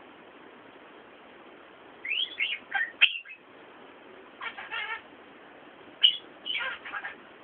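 A bird chirping in three short bursts of quick rising and falling calls.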